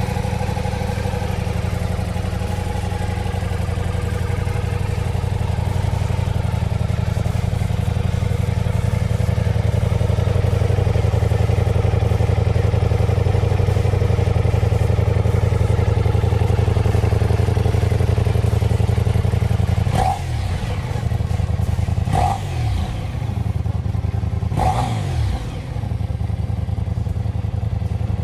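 Ducati Diavel V4 motorcycle's V4 engine idling steadily. Near the end come three short throttle blips a couple of seconds apart, each rising and falling back to idle.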